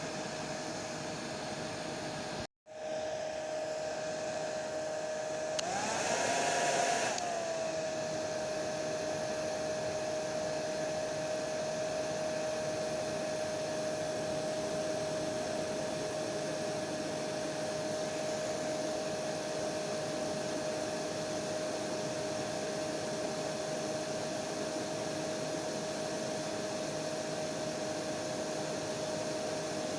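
Hair dryer blowing steadily, a noisy rush with a steady whine. It cuts out for an instant about two and a half seconds in. A few seconds later it briefly gets louder, its whine rising in pitch and then settling back to its steady note.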